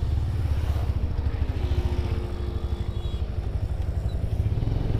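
Motorcycle engine running steadily, a low rumble with fast even pulses, a little louder near the end.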